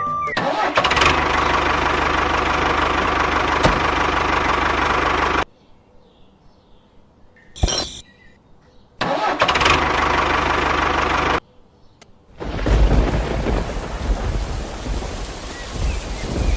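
A mini tractor engine running in two stretches, about five seconds and then about two seconds, each cut off suddenly, with a short click in the quiet between. From about twelve seconds in, a rumbling, rain-like noise takes over.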